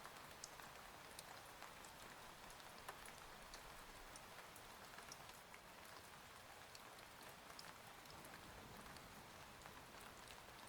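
Faint, steady rain, with many small drops ticking sharply through the hiss.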